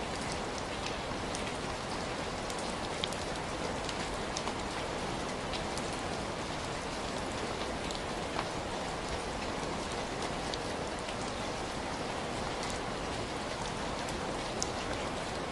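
Heavy rain falling steadily, a dense even hiss with scattered individual drops ticking close by.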